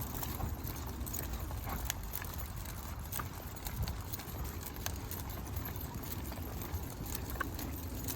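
Footsteps of a walker and a pack of dogs on a trail, with scattered clicks and jingles of collar tags and leash hardware over a low steady rumble.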